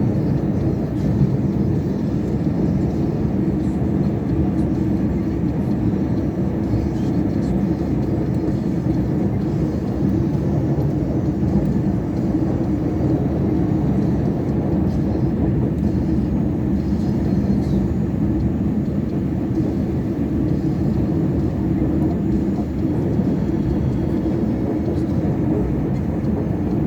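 Heavy four-axle Scania truck with a V8 engine of over 600 hp driving steadily at work. A low, even drone of engine and road noise runs on without changes.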